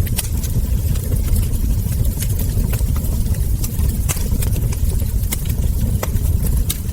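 Wood fire crackling: sharp pops and snaps at irregular intervals, several a second, over a steady low rumble of burning logs.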